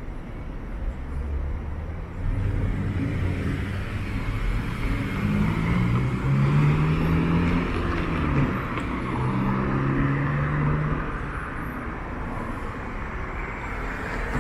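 A motor vehicle driving past on a city street: engine hum with tyre noise, building from about two seconds in, with the engine note stepping up in pitch and loudest in the middle before easing off.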